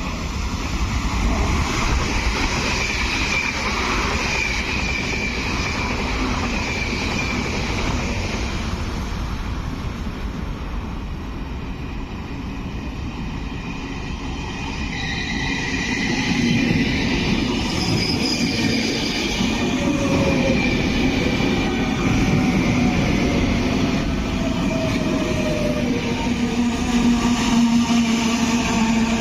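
A train running through a station, with a high wheel squeal and a whine whose pitch falls in the second half. A steady low hum comes in near the end.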